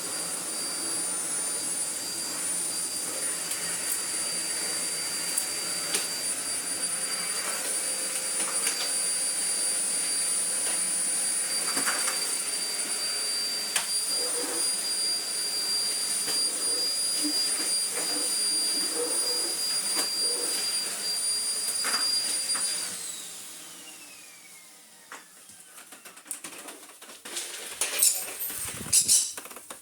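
Miele Blizzard CX1 bagless vacuum cleaner running with a steady motor noise and a high whine, then winding down with a falling whine about three quarters of the way through. Near the end comes a quick clatter of knocks, as the machine goes through its automatic ComfortClean filter self-cleaning cycle.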